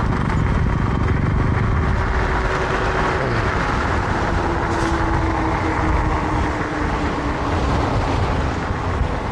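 Wind rushing over the microphone while riding an e-bike. Under it a faint whine from the electric motor slowly drops in pitch as the bike slows.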